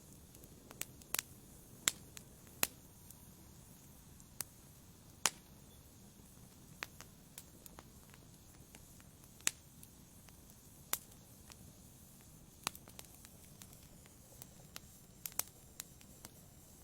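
Wood fire burning in a fireplace: irregular sharp crackles and pops, a handful of louder snaps among many small ones, over a faint low hiss.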